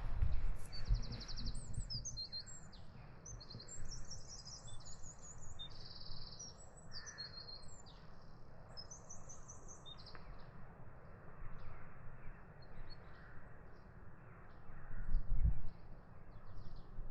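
Several small songbirds singing, with many quick high chirps and rapid trills overlapping through the first half and thinning out later, over a low steady rumble. A brief low thump comes near the end.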